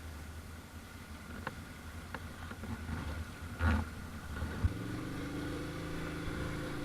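ATV engine running, with a low rumble, a few sharp knocks and a short louder burst a little past halfway. After that a steady engine hum settles in.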